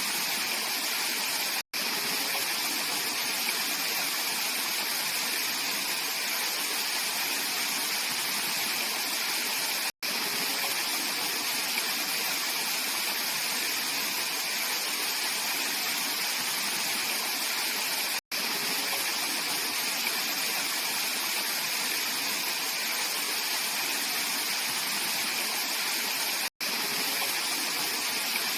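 Mountain valley stream flowing steadily, a constant full rush of water. The sound cuts out for an instant about every eight seconds, four times.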